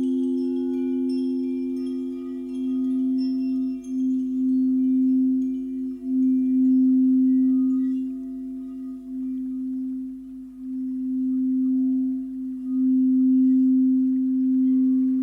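Two crystal singing bowls ringing in a long, pure, sustained low tone that swells and fades in waves. Faint high tinkling chime notes in the first half.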